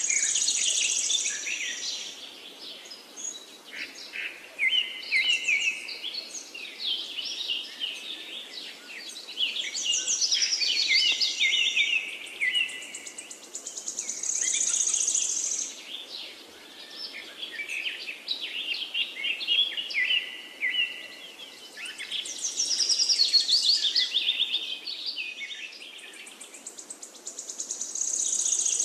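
Birds chirping and trilling in overlapping phrases, with bright high trills coming back every few seconds.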